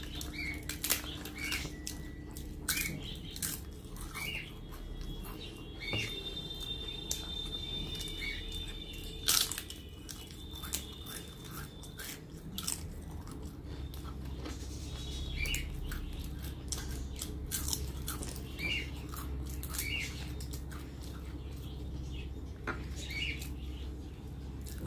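Close-up mouth sounds of someone eating by hand: chewing and crunching fried papad with rice, with frequent small sharp crunches and smacks. Small birds chirp briefly now and then in the background.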